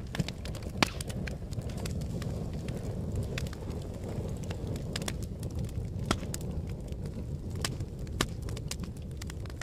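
Fire crackling: a steady low rumble of flames with frequent sharp pops and snaps, one loud pop about a second in.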